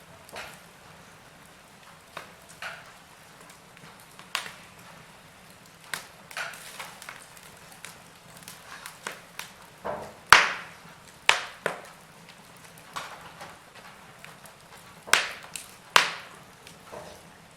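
Log fire crackling in a fireplace: irregular sharp pops and snaps over a faint steady hiss, with a cluster of louder cracks about ten seconds in and again near the end.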